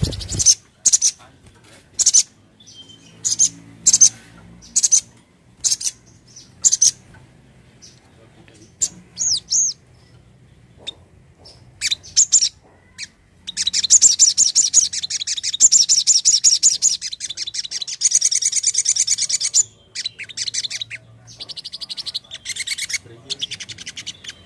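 A songbird calling: short, sharp, high chirps about once a second, then a long rapid chattering trill from about halfway through, followed by shorter trills near the end.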